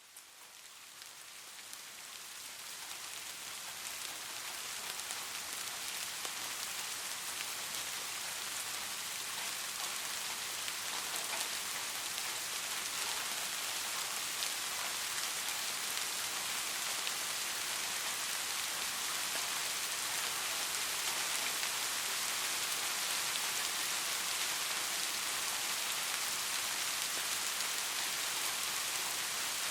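Steady rain falling, fading in over the first few seconds and then holding even.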